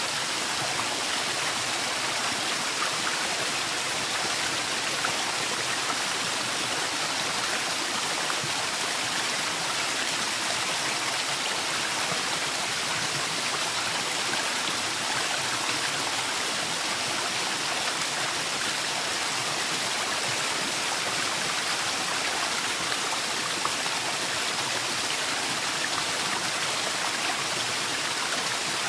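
Waterfall in a forest: a steady rush of falling water that holds an even level throughout.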